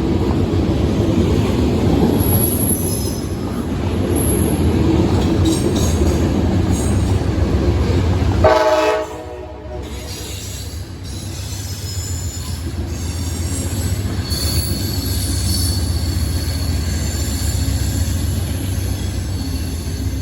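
Train rumbling past, with a short horn blast about eight and a half seconds in that cuts off sharply. After that the rumble is quieter and high-pitched wheel squeal comes and goes.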